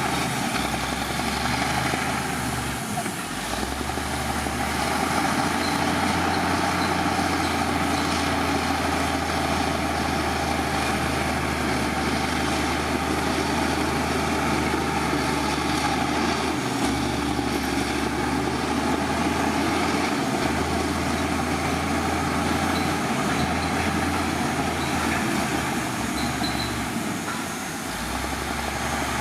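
Heavy diesel engine of earthmoving machinery running steadily with a deep drone, dipping slightly in loudness about three seconds in and again near the end.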